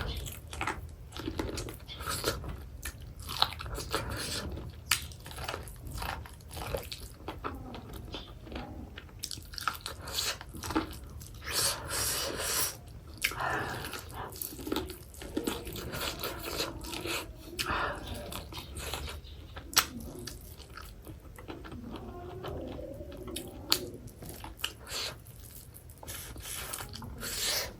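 Close-miked biting and chewing of boiled corn on the cob, with many small crunches and wet mouth clicks scattered throughout.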